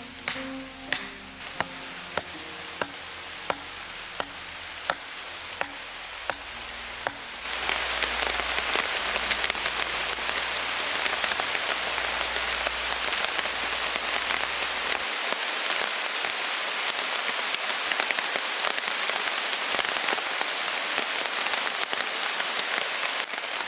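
Steady heavy rain that starts suddenly about a third of the way in and keeps up to the end. Before it, sharp knocks come about every 0.7 s over soft music.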